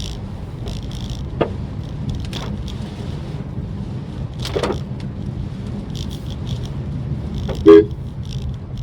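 Maruti Suzuki Swift Dzire driving, a steady low road-and-engine rumble with scattered light ticks. A short, loud horn toot sounds near the end.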